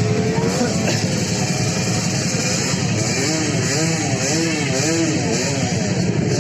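A motor engine running steadily, with a wavering tone over it that rises and falls about twice a second in the second half.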